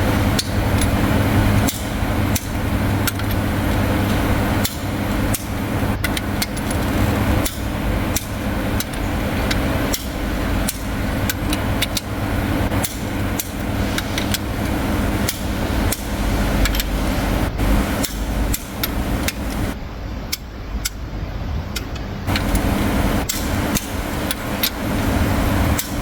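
Workshop sounds during engine work: irregular sharp metallic clicks and knocks of hand tools over a steady machine hum.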